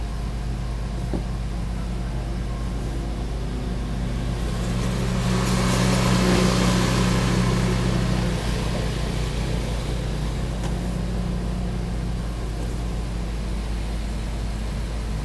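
An engine running steadily, with a rushing noise that swells louder in the middle, peaking about six seconds in, then fades back.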